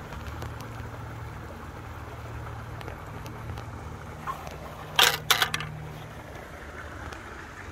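Small engine, likely the gold dredge's motor, running steadily in the background. About five seconds in there is a short burst of sharp clattering knocks.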